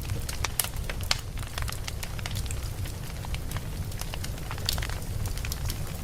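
Wood fire burning and crackling: irregular sharp pops and snaps, several a second, over a low steady rumble of the flames.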